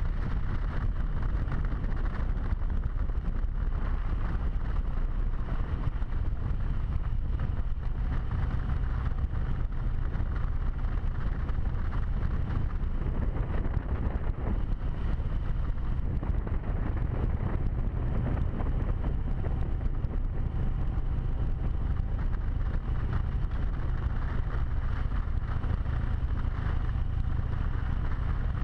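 Harley-Davidson V-twin motorcycle cruising at a steady pace, its engine rumble mixed with heavy wind rush on a helmet-mounted camera.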